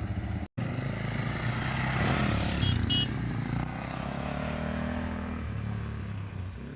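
Dual-sport motorcycle engine running, its revs rising about two seconds in and easing back down after about three seconds.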